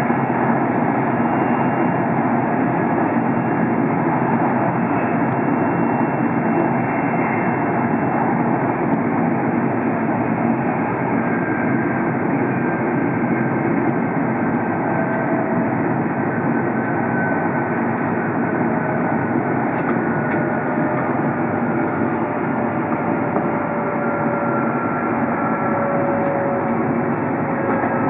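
Steady running noise of a Tohoku Shinkansen train travelling at speed, heard inside the passenger cabin, with faint whining tones that slowly fall in pitch.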